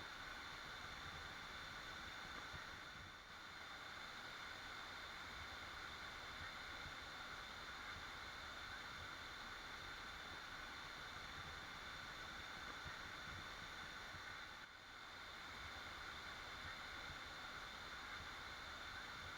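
Waterfall rushing in a steady, even roar of falling water, dipping briefly twice in level.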